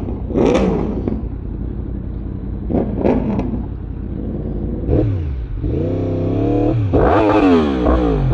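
Sport-bike engines running, with short throttle blips and then longer revs that rise and fall in pitch near the end.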